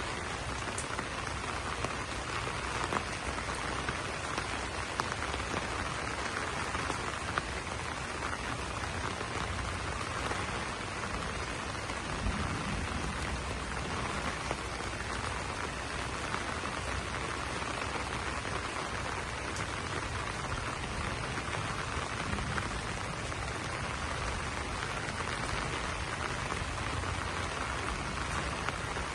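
Steady rain falling on banana leaves, an even patter with occasional sharper single-drop ticks.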